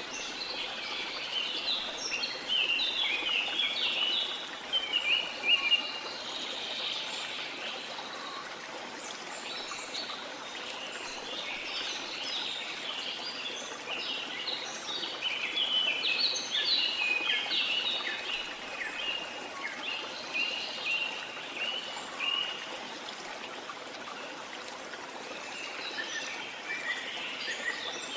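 Many birds chirping and calling in quick, overlapping short notes over the steady rush of a waterfall. The chirping eases off for a few seconds near the end, then picks up again.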